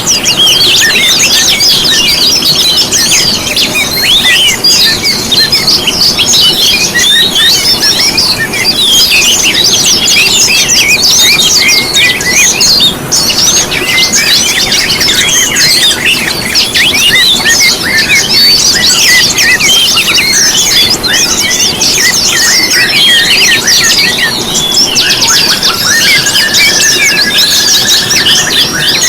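A dense chorus of small songbirds chirping and twittering without pause, many quick high notes overlapping, with one longer whistled note near the end.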